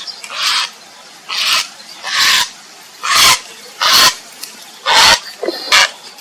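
Grey heron giving harsh, rasping croaks, about seven short calls roughly a second apart; the calls are those of a heron calling for a mate.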